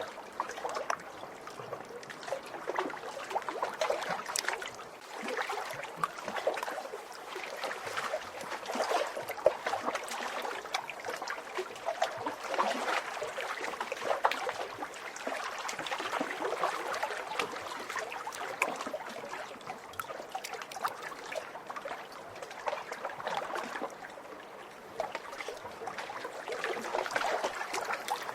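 Small lake waves lapping and splashing at the shore, a steady run of little splashes that swells and eases every few seconds.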